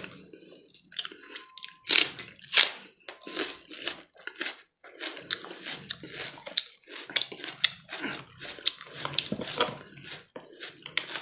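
Close-miked eating sounds: a man chewing soft roasted camel brain with wet, irregular smacking and clicking of the lips and mouth.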